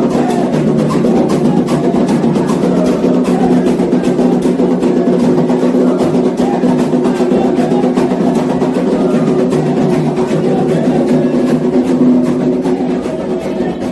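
Candomblé ritual music: drums beaten in a dense, steady rhythm, with sustained tones held underneath.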